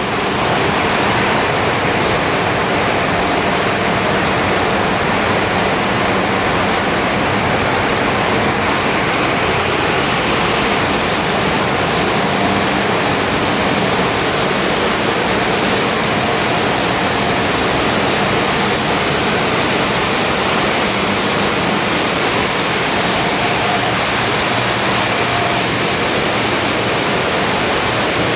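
Loud, steady machinery noise of a bulk carrier's engine room, a dense even din with faint hums running through it.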